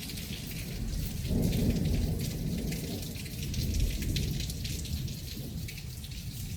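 Torrential rain falling steadily, with low rolling thunder that swells about a second and a half in and again around four seconds.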